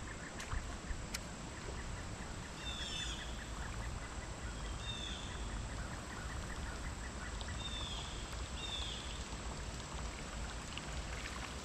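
Four short, falling bird calls over a steady low outdoor background noise.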